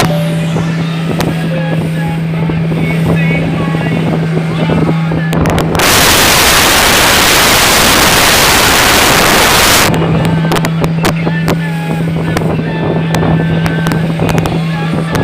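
Motorboat engine running with a steady low hum, while short high cries or notes come and go. For about four seconds in the middle, a loud even rushing noise drowns everything out and then stops abruptly.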